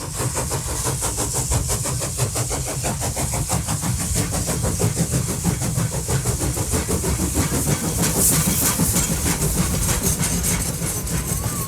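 A train running: a steady low rumble with a rapid, even beat throughout.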